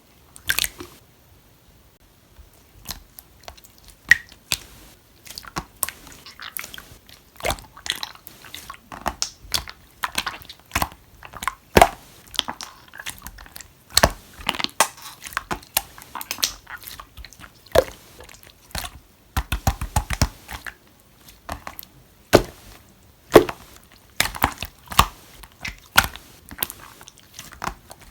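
Green clear slime being played with, making irregular sticky pops and clicks, with a quick run of rapid clicks a little past the middle.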